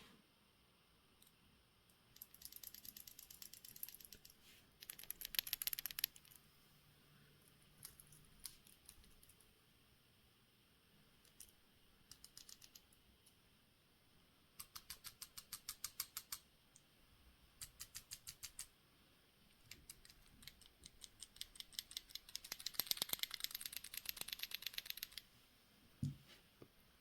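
Faint rattling and rapid clicking from inside a vintage Omega automatic watch, coming in short bursts as the watch is moved: the winding rotor knocking inside the case. It is the strange noise of a movement left unserviced for at least 25 years.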